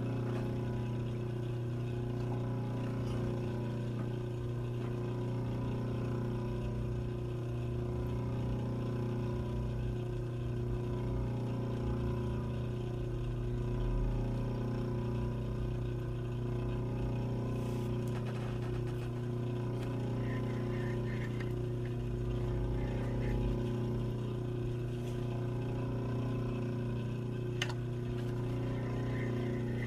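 Steady low motor hum with a slow, even pulsing beneath it.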